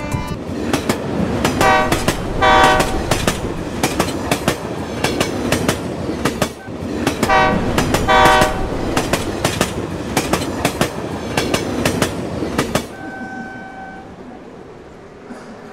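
Passenger train running with a steady clickety-clack of wheels over rail joints and sounding its horn in two double blasts. About 13 seconds in the clatter cuts off suddenly, and a brief faint tone is left fading out.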